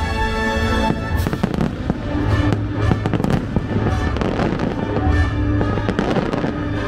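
Aerial fireworks bursting and crackling in quick clusters, thickest in the second half, over a steady music soundtrack.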